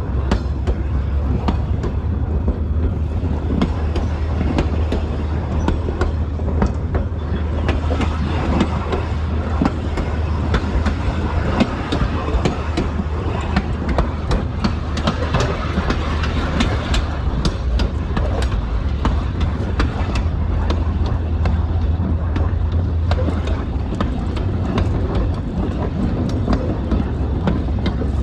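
Queensland Rail 2000 class diesel railmotor running along the line: a steady low drone with frequent clicks and knocks from the wheels on the track.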